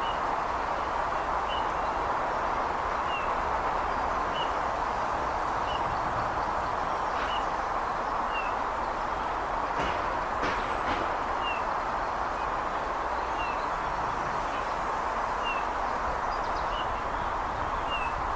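A small songbird repeating a short, slightly falling high note about once a second, over a steady background noise like distant traffic.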